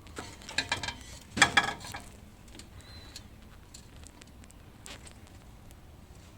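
Metal clinking and rattling from work on the alternator bracket, a quick cluster of sharp clicks loudest about one and a half seconds in, then only faint scattered ticks.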